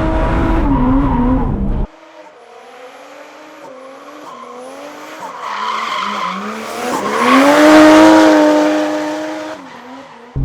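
A drift car's engine revving hard, then after a sudden drop in level an engine approaching with rising revs as the car slides through a corner with tyres squealing, loudest about eight seconds in, then fading as it goes by.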